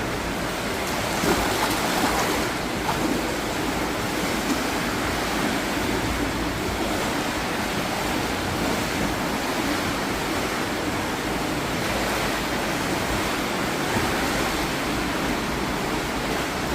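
Sea surf washing on the shore: a steady rushing noise of waves with no pause.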